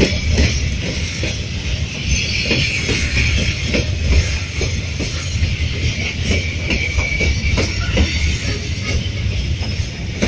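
Freight train rolling slowly past, its wheels knocking over the rail joints in an irregular run of clacks over a steady low rumble, with a high hiss and faint wheel squeal.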